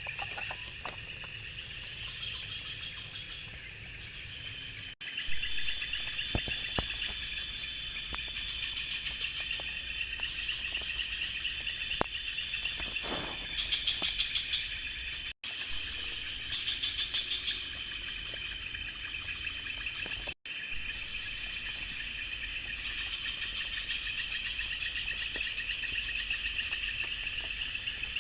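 Forest insect chorus of crickets and similar insects: a steady, dense high chirring with pulsing trills layered on it. It breaks off abruptly for a moment three times.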